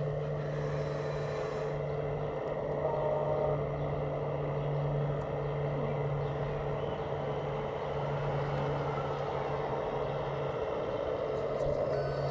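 A radio-controlled scale construction machine running with a steady engine-like hum that does not change. A reversing beep starts right at the end.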